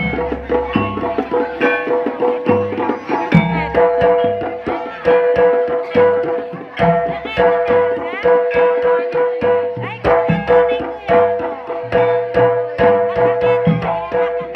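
Live jaranan music: hand drums beating a fast, busy rhythm with deep thuds, under held melodic tones that shift from note to note.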